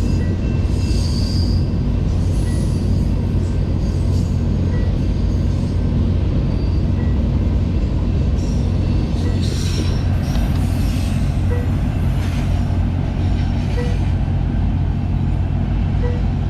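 BNSF freight train passing, with a steady loud low rumble from the diesel locomotives and rolling cars. Brief high-pitched wheel squeals come through around the middle.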